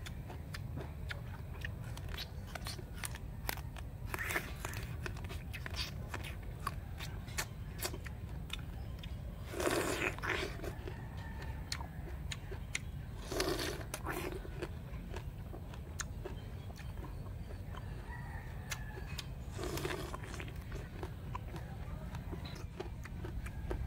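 Close-up chewing of juicy star fruit: many small wet clicks of chewing, with three louder crunching moments about ten, thirteen and twenty seconds in, over a low steady rumble.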